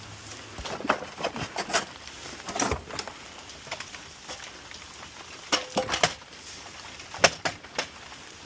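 Steady rain hiss with scattered sharp knocks and clatters of junk being handled, the loudest a few seconds before the end.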